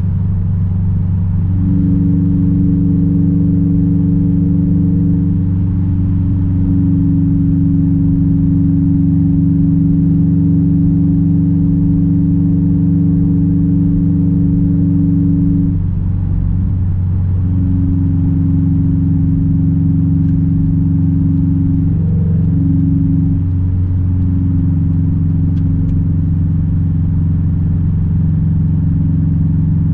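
2006 Subaru WRX STI's turbocharged flat-four running through a straight-piped exhaust, a steady low drone at constant revs. The tone briefly wavers about halfway through and again a few seconds later.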